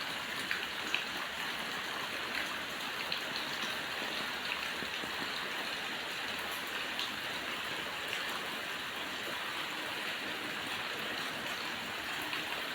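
Steady rushing water noise with scattered small drip-like ticks.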